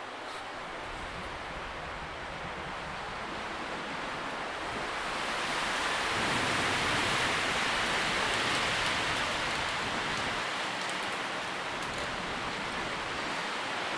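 Wind rustling through tree leaves: a steady rustle that swells about a third of the way in and stays fuller, with faint leaf ticks scattered through it.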